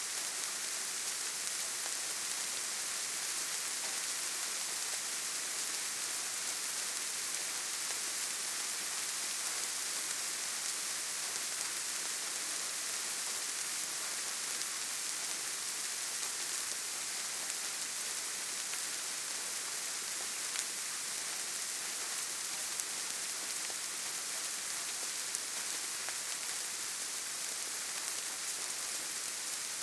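Steady rainfall pattering on foliage, an even hiss with tiny drop ticks throughout.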